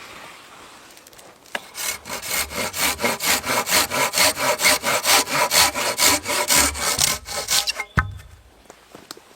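Hand saw cutting through wood in quick, even back-and-forth strokes, about three a second, that stop near the end with a single knock.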